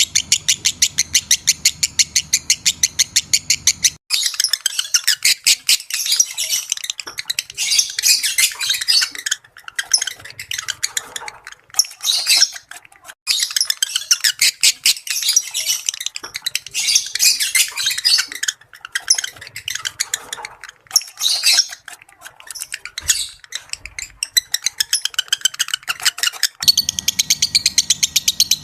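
Lovebirds chattering with high-pitched, rapid chirps and squawks, a lure recording meant to bring lovebirds into breeding condition. The first few seconds and the end hold a fast, very even run of chirps, several a second; about four seconds in, this changes to irregular, dense chatter.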